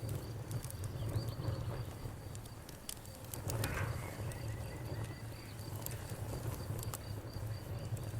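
Campfire crackling, with scattered sharp pops over a low steady rumble. An insect, likely a cricket, trills steadily at a high pitch throughout.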